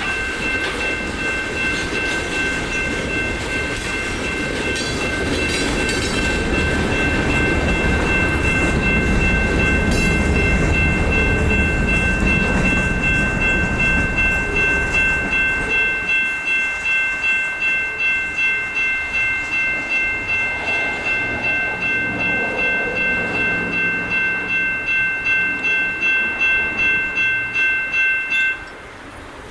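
Railroad crossing bells ringing at about two strikes a second while a train rolls past. The train's rumble and wheel clatter are heaviest in the first half and thin out after about sixteen seconds. The bells stop suddenly near the end.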